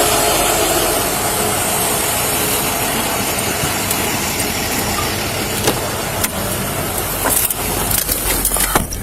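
Motor vehicle engine running steadily, with a few short clicks and knocks in the last few seconds.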